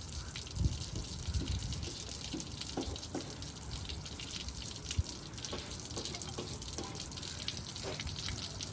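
Steady rush of running water, with scattered faint clicks and knocks of handling.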